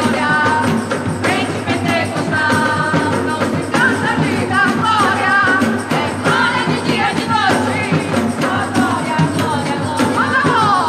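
A band playing a gospel worship song, with singing voices over a steady drum beat.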